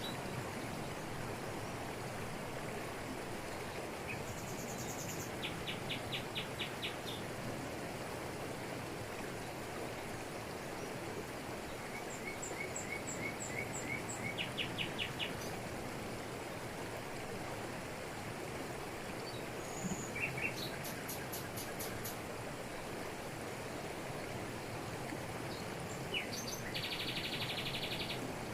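Waterfall in tropical forest, water falling over rocks in a steady rush. Birds call over it several times, each call a quick series of high repeated notes, the longest a dense trill near the end.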